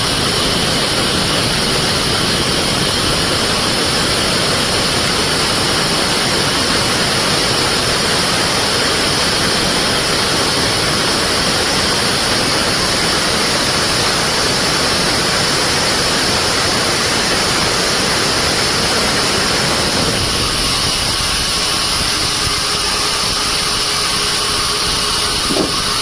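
Sawmill band saw and its drive running steadily, a loud even machine noise. About twenty seconds in the lower part of the noise drops away somewhat, and a short knock comes near the end.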